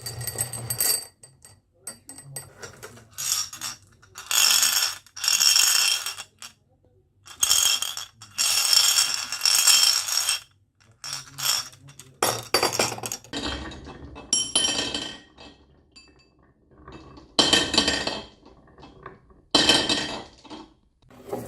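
Marbles rolling and clattering down a wooden marble run, in a string of separate rattling bursts with short pauses between them.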